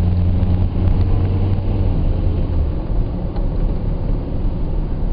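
Car engine and road noise heard from inside the car while driving: a steady low hum over a rumble of tyres. The hum fades about two and a half seconds in, leaving the rumble.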